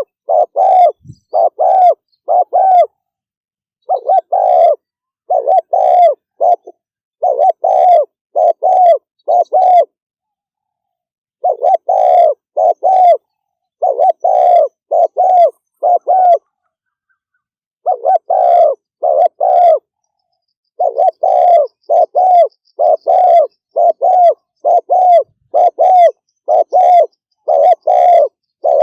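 Spotted dove (cu gáy) cooing fast: loud, low coo notes given in quick runs of several, with a few short pauses between runs.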